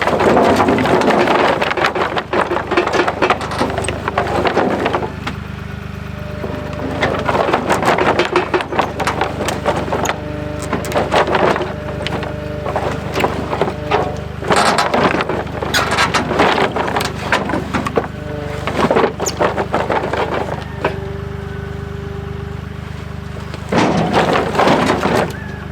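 Avant 755i compact loader's diesel engine running steadily, with repeated bursts of rattling, scraping and knocking as debris is handled.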